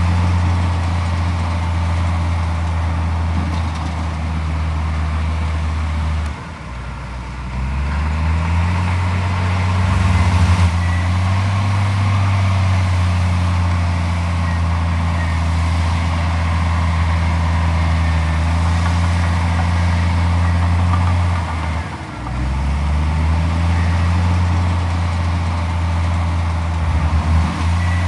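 Heavy diesel engine of earthmoving machinery running steadily at working revs, with a low drone. Twice, about six seconds in and again about three-quarters of the way through, the revs drop briefly and then climb back up.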